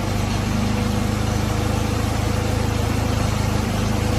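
Vintage tractor engine idling steadily as it burns off the last of its fuel.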